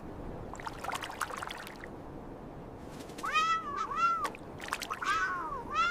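A cat meowing about four times in quick succession from about three seconds in, with short, high-pitched arching meows. Beneath it is a steady hiss with scattered crackles, densest in the first two seconds.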